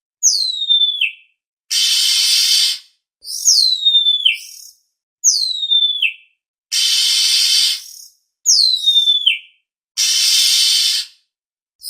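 Oriental magpie-robin calling: four clear whistles that each slide down steeply in pitch, alternating with three harsh, rasping calls of about a second each, at an even pace.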